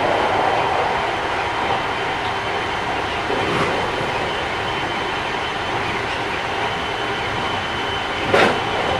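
Running sound of a Keikyu 1000 series electric train with Mitsubishi IGBT-VVVF drive, heard inside the car: a steady rumble of wheels and traction motors with a faint high whine held on one pitch. A single sharp knock comes about eight seconds in. This trainset is a little noisier than others of its class.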